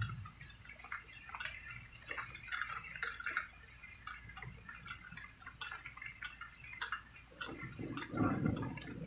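Rain dripping in many small, irregular drops, with a brief low rumble about eight seconds in.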